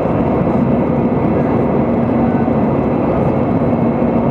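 Steady cabin noise of an airplane in flight: engine and airflow noise with a low, steady hum.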